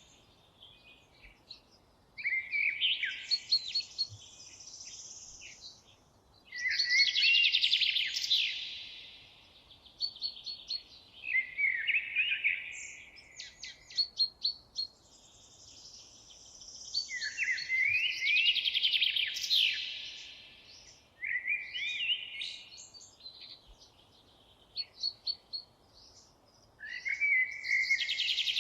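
A songbird singing short, rapid phrases of trills and falling notes, repeated every few seconds with quiet pauses between them.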